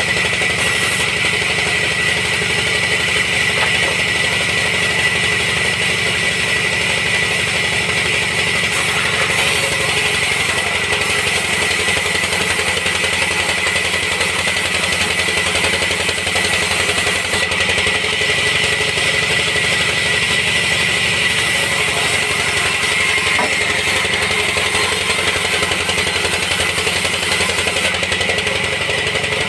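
Sawmill machinery running steadily: an engine-like drone with a constant high-pitched whine over it.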